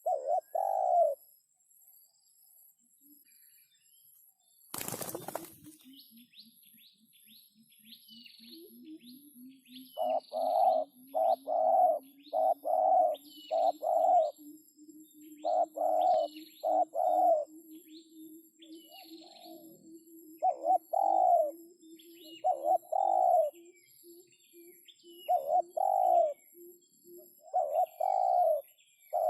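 Spotted doves cooing: short, mid-pitched notes repeated in runs of two to four. A sudden loud crackle about five seconds in, and a faint low buzzing tone slowly rising in pitch underneath for much of the time.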